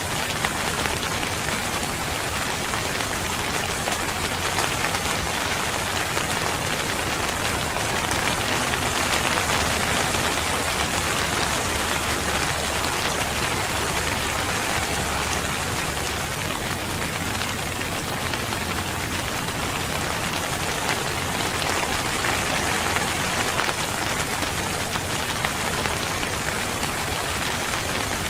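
Steady rain falling and pattering on surfaces, an even dense hiss with a fine crackle of drops.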